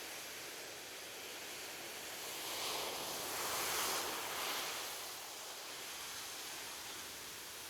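Gentle ocean surf on a beach: a steady wash of water with one wave swelling and breaking about halfway through, then receding.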